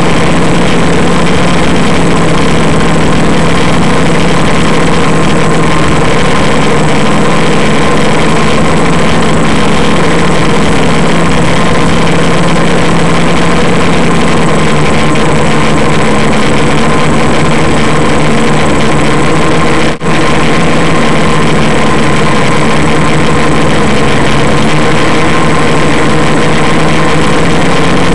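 Electric motors and propellers of a DJI Flamewheel quadcopter in flight, a loud steady hum over rushing noise. The sound drops out for a split second about twenty seconds in.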